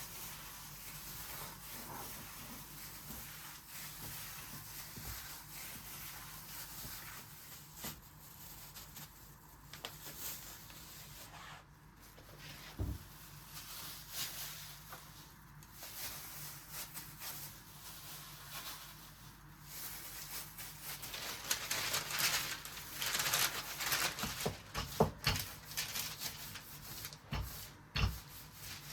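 Faint rubbing and rustling handling sounds with a few light knocks over a steady low hum, growing louder and busier for several seconds in the second half.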